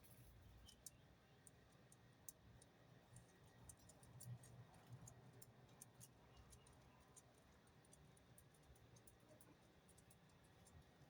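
Near silence with many faint, scattered ticks over a low hum.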